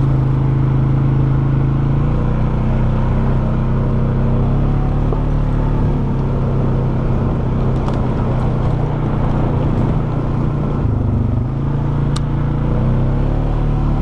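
Polaris Sportsman 570 ATV's single-cylinder engine running steadily while riding, its pitch shifting a little with the throttle and dipping briefly near the end. A single sharp click about twelve seconds in.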